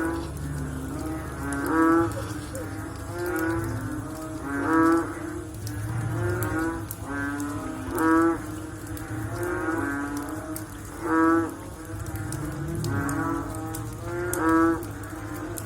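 A chorus of frogs calling after rain: repeated, overlapping calls, with a louder call standing out about every three seconds.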